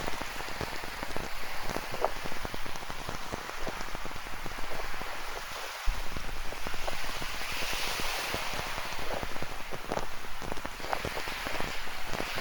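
Rain falling, with individual drops striking close by, over the steady wash of ocean surf that swells up once past the middle. A single brief low thump comes a little before the middle.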